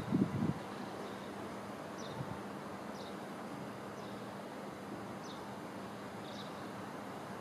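Faint, steady rumble of a JR East 205 series electric local train slowly pulling into the station, with a few low wind thumps on the microphone at the start. Short high bird chirps come about once a second from about two seconds in.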